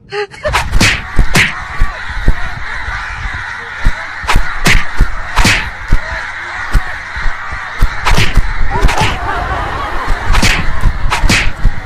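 Two roosters fighting, their wings beating in irregular sharp flaps and smacks as they strike at each other.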